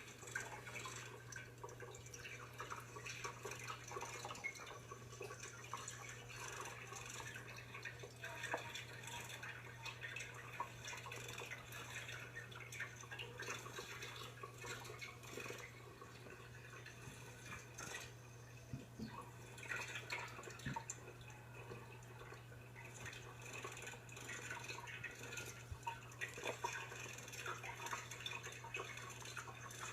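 Faint, irregular small clicks and ticks of a pet eating, over a steady low hum.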